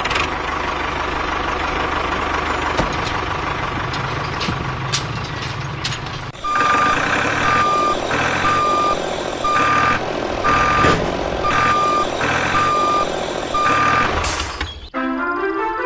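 A truck engine runs steadily. From about six seconds in, a reversing alarm beeps about eight times, roughly once a second, over the engine. Music starts near the end.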